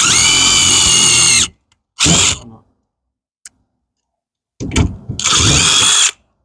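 Power drill driving a screw in three runs: one of about a second and a half, a short blip, then another of about a second and a half, the motor whine rising as each run starts. The screw is getting stuck, its head probably stripped.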